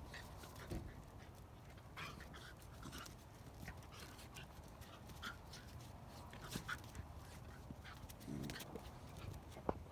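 Andalusian bodeguero puppies play-fighting: faint small whimpers and squeaks, panting, and scattered light scuffling clicks.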